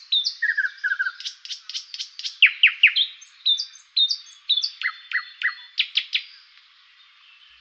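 Birds chirping: a rapid run of short, high chirps and quick downward-sweeping whistles that thins out and stops about six and a half seconds in.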